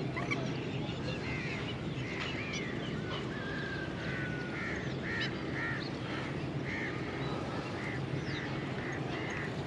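Birds calling: a run of short, repeated honk-like calls about two a second starting about four seconds in, with smaller birds chirping and whistling, over a steady low hum.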